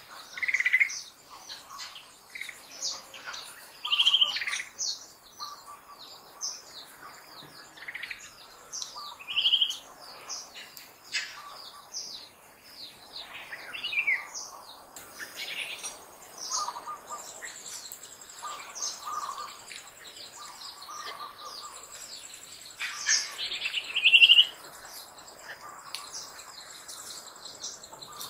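Birds chirping and calling in many short notes, a few louder calls standing out among them, with a thin high steady buzz coming in a little past halfway.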